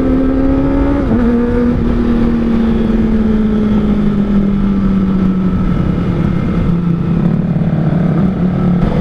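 Kawasaki ZX-25R's 250 cc inline-four with an R9 Zeta aftermarket exhaust, running at steady high revs under way. About a second in, the revs drop suddenly, then sink slowly over several seconds, with wind rush underneath.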